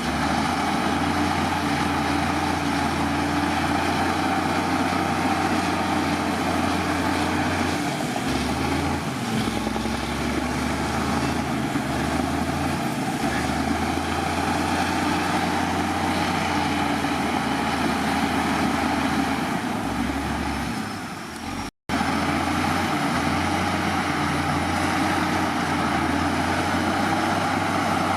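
Heavy diesel engine of earthmoving machinery running steadily under work. The sound cuts out completely for a split second a little past the middle, then carries on unchanged.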